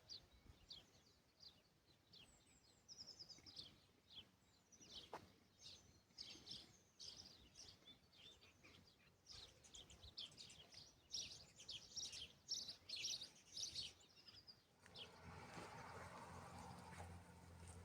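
Small birds chirping, a run of many short high calls that gets busiest in the middle. Near the end a low steady hum with some noise comes in.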